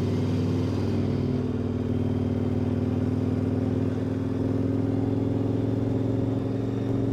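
KTM 1090 Adventure R's V-twin engine running steadily as the motorcycle rides along at an even pace.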